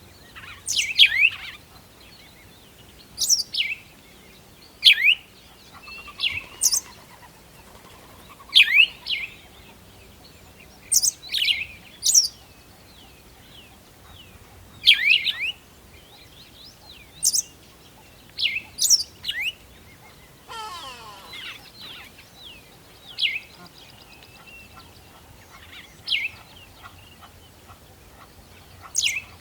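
Birds calling: short, sharp chirps that sweep steeply down in pitch, repeated every second or two, some in quick pairs or triplets. About two-thirds of the way through, a different lower, rising, rippling call is heard.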